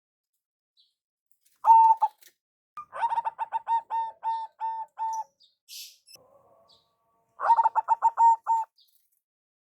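Zebra dove (perkutut) cooing: three phrases of rapid staccato coos, a short one about two seconds in, a longer one whose notes space out towards its end, and another near the end.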